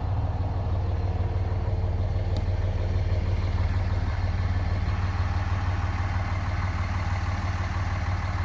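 Cummins 24-valve turbo diesel inline-six in a 2004 Dodge Ram 2500 idling steadily with a low, even drone.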